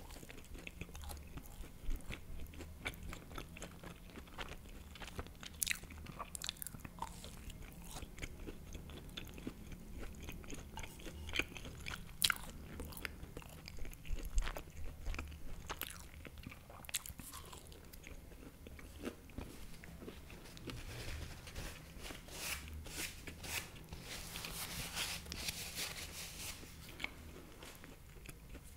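Close-miked chewing of a baked empanada: a bite, then crunching pastry and wet mouth clicks in an irregular patter.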